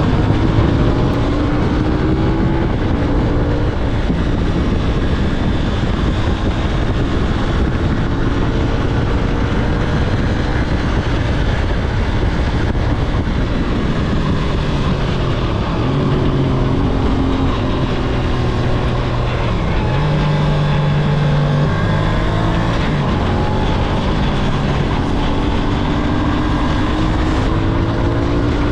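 CFMOTO 450SS parallel-twin motorcycle engine running under way, its pitch holding steady for stretches and shifting up and down with throttle and gear changes, over a constant rush of road and wind noise.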